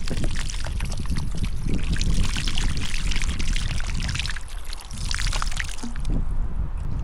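Water pouring and splashing, a dense spattering that thins out about six seconds in, over a steady low rumble.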